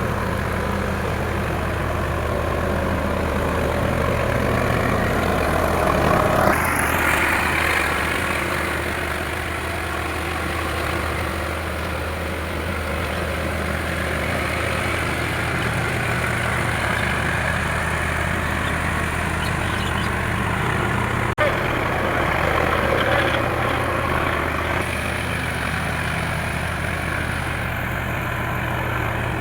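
Diesel tractor engine running steadily with a low, even note, its sound shifting now and then, with a brief dropout about 21 seconds in.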